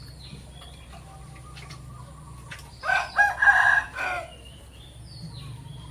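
A rooster crowing once, about three seconds in: a single loud call of a little over a second, with a few breaks. Faint chirps from small birds can be heard around it.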